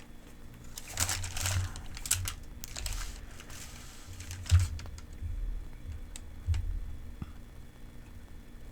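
Paper medication-guide leaflet being handled, rustling and crinkling in a few bursts in the first few seconds, then scattered light clicks and soft taps.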